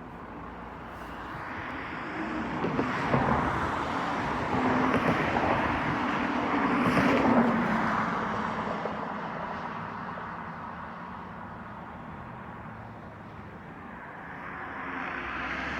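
Vehicles passing by: tyre and engine noise swells to a peak about seven seconds in, fades away, then rises again near the end as another vehicle approaches.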